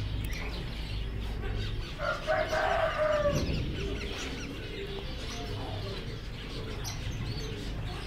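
Caged birds chirping, with one longer, louder call from a bigger bird about two seconds in that drops in pitch as it ends. A low steady hum runs beneath.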